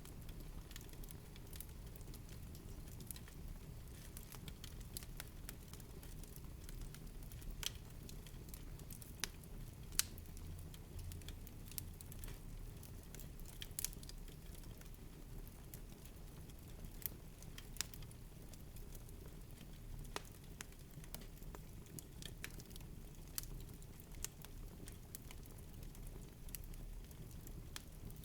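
Fireplace fire crackling: irregular sharp pops and snaps, with a louder pop about ten seconds in, over a low steady rumble.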